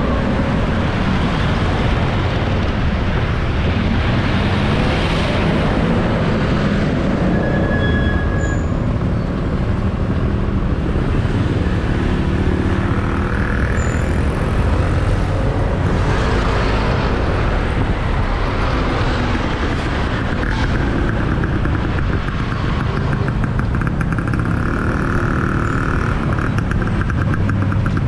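Motorbike riding through city traffic: steady engine and road rumble with the noise of surrounding cars and motorbikes, a few brief higher tones standing out now and then.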